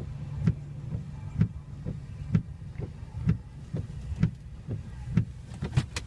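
Inside a vehicle during a tornado: a steady low hum with a dull thud about once a second, and a few sharp clicks near the end.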